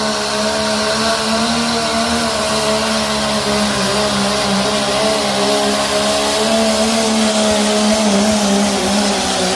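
A pulling truck's engine runs hard and loud at high, fairly steady revs during a pull down the track. Its pitch wavers slightly and dips a little near the end.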